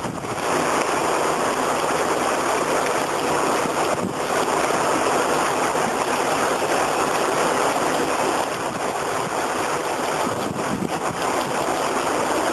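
Squall-line windstorm: gusting wind with rain, a steady loud rushing noise that eases briefly a few times.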